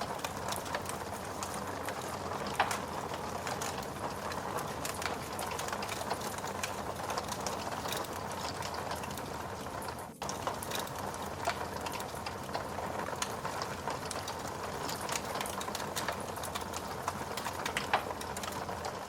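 Wood fire crackling: a steady hiss scattered with sharp snaps and a few louder pops. It dips briefly about halfway through.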